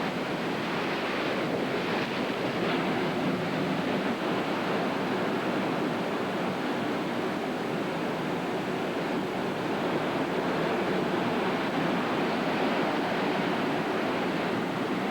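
Heavy hurricane-driven surf breaking and washing ashore, mixed with strong wind buffeting the microphone: a steady, unbroken rushing noise.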